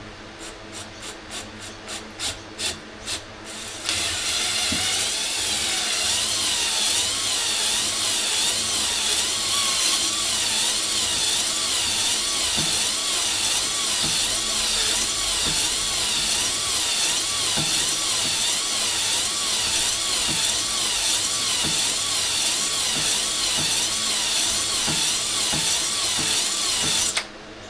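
A power drill spins a ball hone inside a Husqvarna 365 chainsaw cylinder to deglaze the bore. It starts with a few seconds of short repeated bursts, then runs steadily with a pitch that wavers up and down about once a second as the hone is stroked through the bore. It cuts off suddenly near the end.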